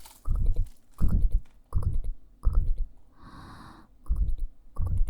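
Rhythmic soft, bass-heavy thumps of hands on the ears of a KU100 binaural dummy-head microphone, about one every 0.7 seconds, with faint clicks on each stroke and a short hiss a little past the middle.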